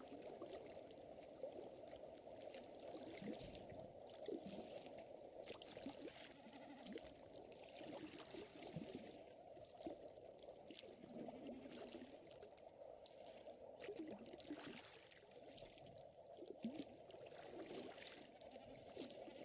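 Faint lake water lapping and gurgling, with scattered small crackles of a wood fire.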